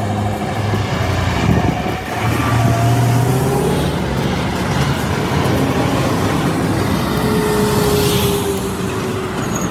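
Scania R770 V8 wood-chip truck on the move: its engine runs steadily under load, with heavy road and tyre noise.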